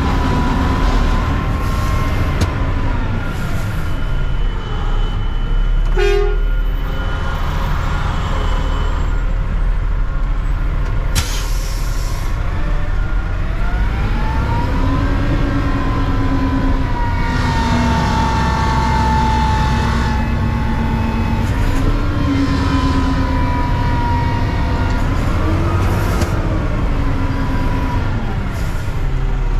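A Mack CNG front-loader garbage truck's engine running, its pitch rising and falling in slow swells over a steady low rumble, with a couple of sharp knocks.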